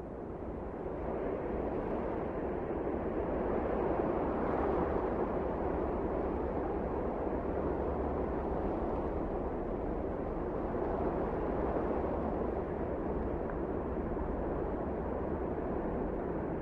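Wind blowing in a steady rush, swelling over the first couple of seconds and then holding even.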